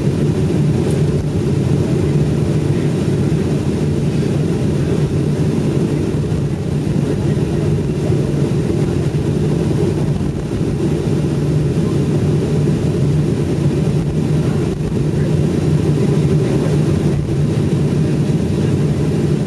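Steady low rumble inside an airliner cabin on the ground after landing, the engines running as the plane taxis.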